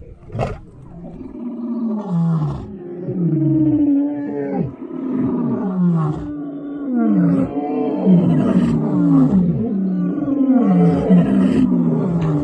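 An animal's deep roaring calls, one after another, each falling in pitch.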